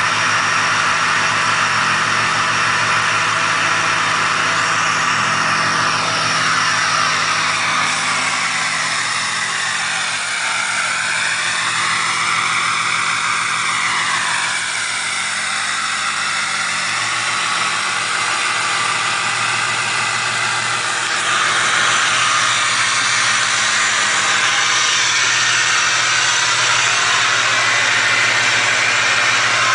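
Ford 6.0 Powerstroke V8 turbodiesel idling cold just after a start in freezing weather, running through a custom side-exit exhaust. A high whistle over the idle dips and rises in pitch around the middle, and the upper part of the sound grows louder about two-thirds of the way through.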